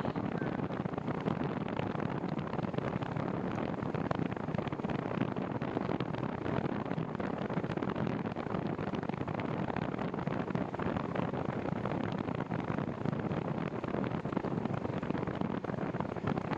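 Wind buffeting the microphone of a cyclist's camera while riding, a steady rushing noise with no breaks.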